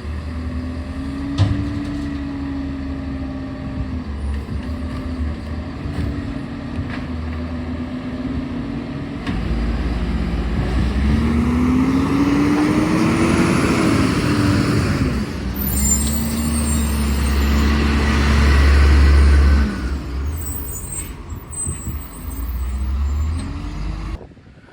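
Garbage truck's diesel engine running, revving up in the middle as the truck works, with short air-brake hisses in the second half.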